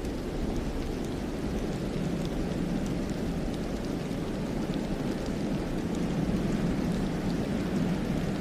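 Steady wind of a snowstorm blowing through a forest: a low, even rushing, with a few faint scattered ticks.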